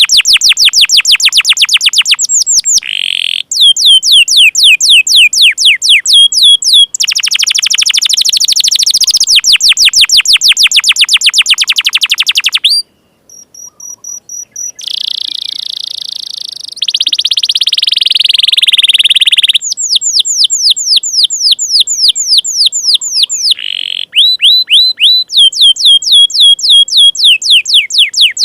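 Domestic canary singing loudly in fast trills of repeated, sharply falling high notes, about ten a second. The runs are broken by brief gaps, and a buzzy, rattling phrase comes near the middle.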